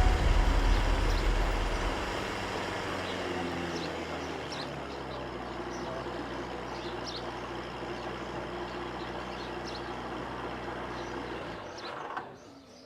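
A steady engine hum, low and unchanging in pitch, loudest in the first couple of seconds and cutting off near the end. Faint high chirps, like birds, sound over it.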